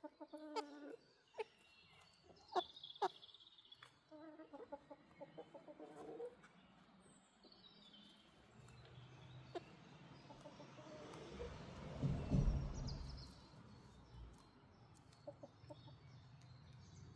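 Chickens clucking in short runs of calls, with a few sharp clicks, over the first six seconds. After that a low rumble builds, is loudest about twelve seconds in, and fades away.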